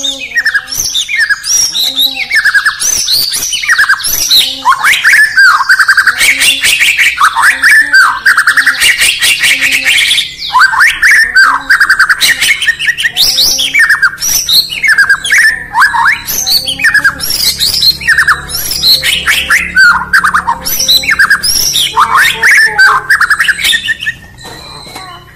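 White-rumped shama (murai batu) singing loudly: a long, continuous run of rapid, varied whistles and quick sweeping notes with harsher notes mixed in, stopping near the end.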